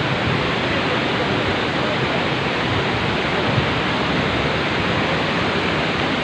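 Steady, loud rush of a large waterfall, an even hiss without breaks.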